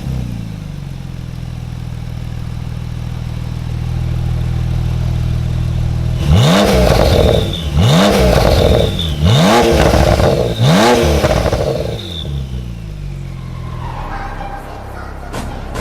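Porsche 991 Turbo's twin-turbo flat-six with an IPE valvetronic exhaust idling, then blipped four times in quick succession about a second and a half apart, each rev rising sharply and dropping back before it settles to idle again.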